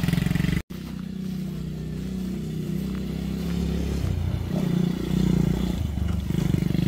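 Mini Jeep's small engine running with an even pulse, cut off sharply about half a second in, then heard more faintly, revving up and down as the Jeep crawls through a ditch, with swells about four seconds in and near the end.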